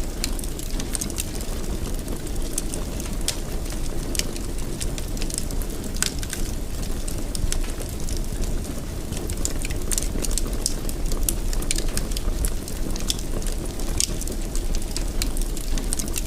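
Wood fire in a fireplace crackling steadily: frequent small sharp pops and snaps over a low, even rumble of the flames.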